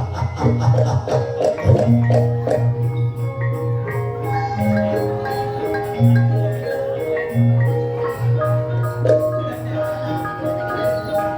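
Banyumas-style gamelan music: mallet-struck tuned instruments play a running melody over repeated low sustained bass notes.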